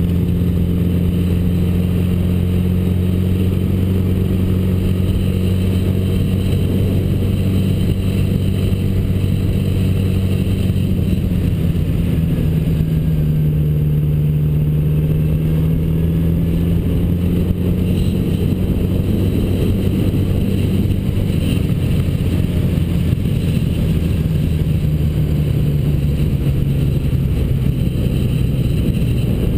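Honda GL1000 Goldwing's flat-four engine running steadily under way, its note dipping slightly about halfway through and then climbing back.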